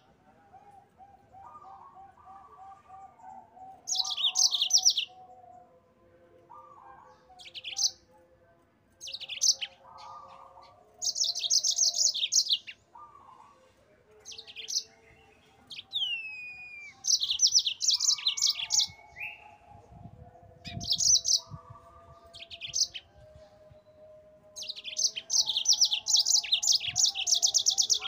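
Yellow-fronted canary singing: bursts of rapid high trills a second or two long, repeated every few seconds, with a falling whistle about halfway and a longer rolling trill near the end. Fainter, lower twittering notes run underneath.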